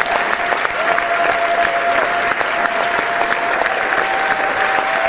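Large crowd applauding: dense, continuous clapping at an even level, with a thin steady tone sounding through it.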